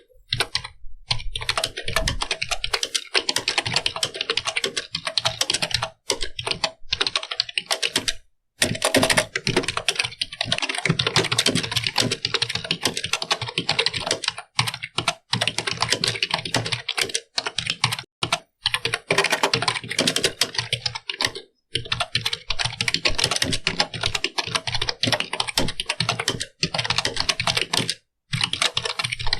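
Computer keyboard being typed on quickly and continuously, a dense run of key clicks broken by a few short pauses.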